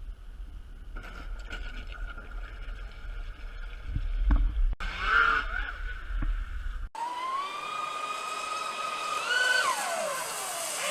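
Radio-controlled catamaran boat's motor running over a low rumble; after a cut, the motor whine climbs steadily in pitch and then drops away sharply near the end.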